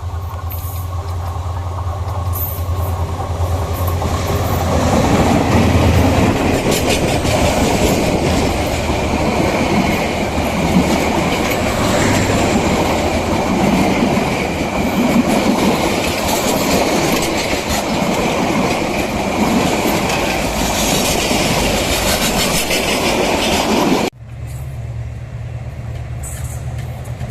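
A train running on rails: a steady low hum, then loud rolling noise of the carriages building about five seconds in and lasting some twenty seconds. It stops abruptly near the end, leaving a steady low hum.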